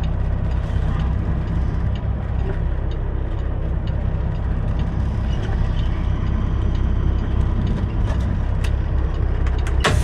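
Semi truck's diesel engine running with a steady low rumble and light clicks. Near the end comes a sharp burst of air hiss, typical of the air parking brakes being set as the truck stops.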